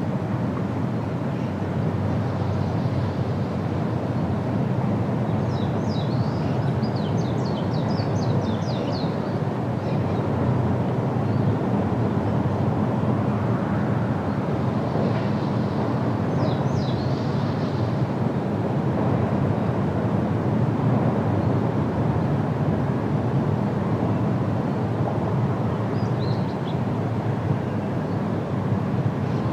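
Outdoor field ambience: a steady low rumble throughout, with small birds chirping in short quick runs of high notes a few times.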